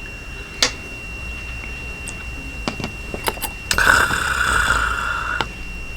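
A few light clicks of chopsticks and cup, then a long noisy slurp of cup ramen noodles lasting under two seconds, about four seconds in.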